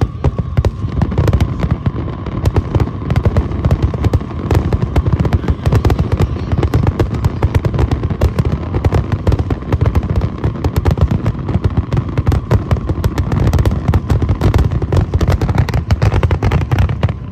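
A dense barrage of aerial fireworks: rapid, overlapping booms and crackles with no break, with a faint steady whistle in the first several seconds.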